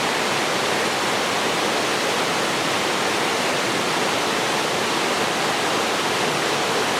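Steady rush of a mountain waterfall, water falling and splashing in an even, continuous roar.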